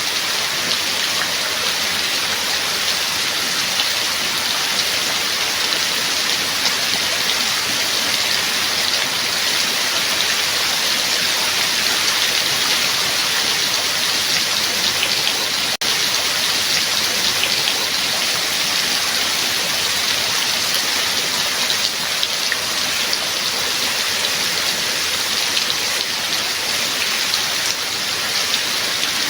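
Steady rain falling: a dense, even hiss of rain with individual drops ticking through it.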